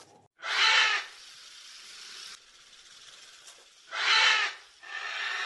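Two short, harsh, hissy animal calls about three and a half seconds apart, followed by a fainter, longer one near the end.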